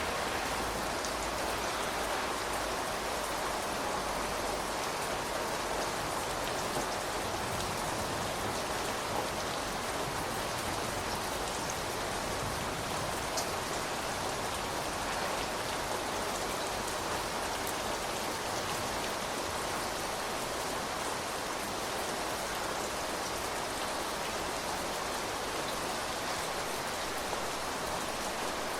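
Steady rain falling on surfaces, an even hiss with a few distinct drop ticks standing out here and there.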